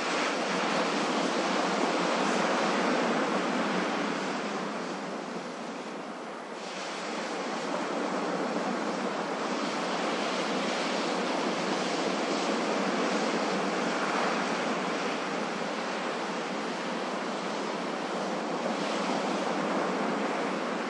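Ocean surf: waves washing in a steady hiss that swells and eases every few seconds, with a brief lull about six seconds in.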